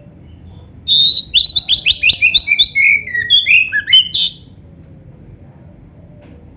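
Oriental magpie-robin (kacer) singing one rapid phrase of short, sharp notes that starts about a second in, lasts about three and a half seconds and steps down in pitch toward its end.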